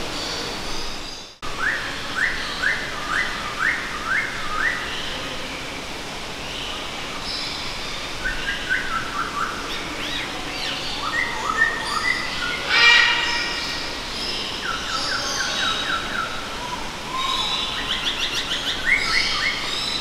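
Several birds calling and chirping, the calls overlapping and varied, including a run of short rising notes repeated about twice a second. The sound drops out briefly about a second in.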